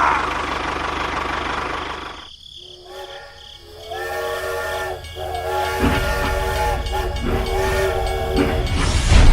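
A steady hissing mechanical noise, then a held whistle-like tone with several pitches at once, sounding in three long stretches, over a low engine rumble that comes in partway through.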